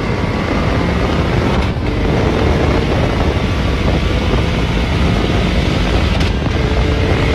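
A car driven hard at speed, its engine under load nearly buried under heavy wind rushing over the microphone.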